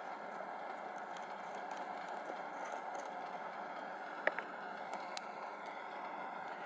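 Steady rushing background noise, with a few small sharp clicks about four and five seconds in.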